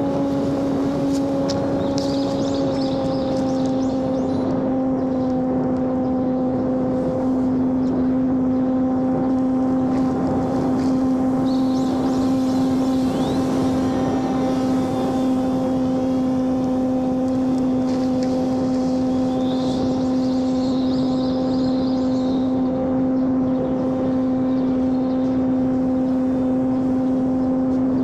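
Homemade radio-controlled airplane's electric motor and propeller running at steady throttle, a constant-pitched tone that dips slightly about two seconds in and then holds.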